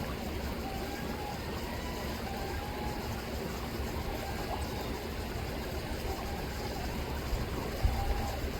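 River water rippling and rushing steadily, with short gull mewing calls now and then. A couple of low bumps sound near the end.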